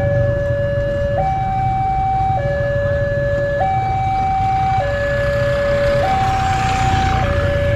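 Railway level-crossing warning alarm sounding: two steady electronic tones, one lower and one higher, alternating about every 1.2 seconds. A low rumble runs underneath.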